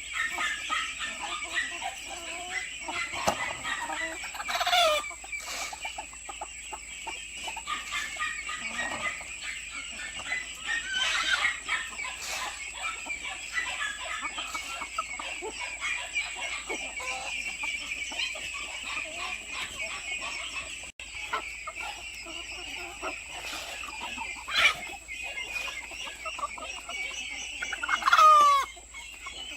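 Free-range hens clucking, with a few louder calls that slide down in pitch; the loudest comes near the end and may be a rooster crowing.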